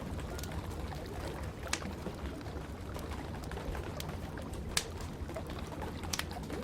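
Wood fire crackling in a fireplace, with a few sharp pops, the loudest about two thirds of the way in, over a steady rush of rain.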